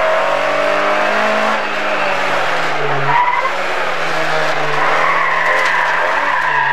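Rally car engine running hard under load, heard from inside the cockpit, with a high whine above it; the pitch steps about three seconds in.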